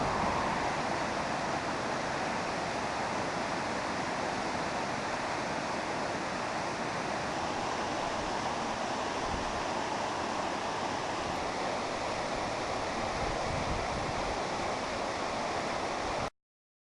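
Steady rushing water, an even roar with no surges, which cuts off suddenly near the end.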